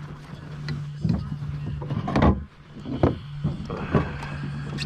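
A steady low mechanical hum with several sharp knocks and thumps about two, three and four seconds in, as a freshly landed bass is handled in a kayak.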